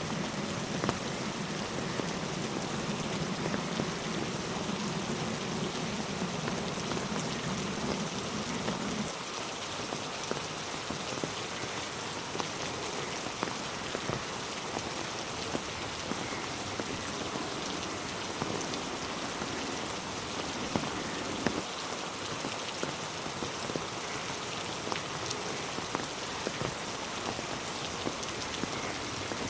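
Steady rain falling on a road and trees, a continuous hiss dotted with the sharp ticks of individual drops. A low hum underneath cuts off suddenly about nine seconds in.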